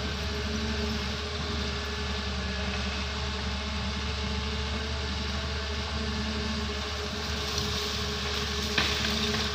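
Doosan excavator's diesel engine running steadily, with a sharp crack near the end.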